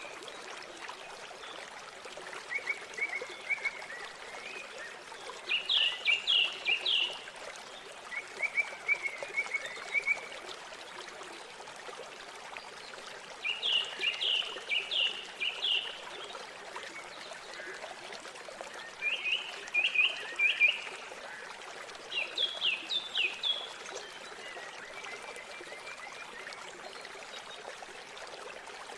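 River water flowing steadily, with a songbird singing short bursts of three to five quick, high notes four times, and softer, lower trills in between.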